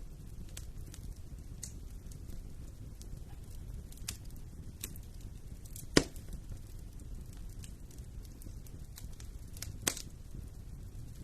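Wood fire burning in a fireplace: a steady low rumble with scattered small crackles, one sharp loud pop about six seconds in and another near the end.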